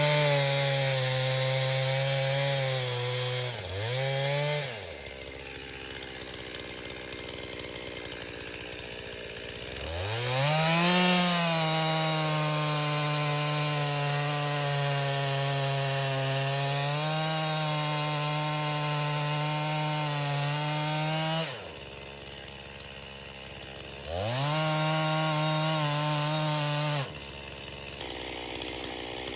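Stihl MS261 two-stroke chainsaw with a 25-inch bar, revved to full throttle and cutting through a poplar log, dropping back to idle between cuts. There is a short burst at the start, one long cut in the middle with the pitch sagging a little under load, then a shorter burst near the end.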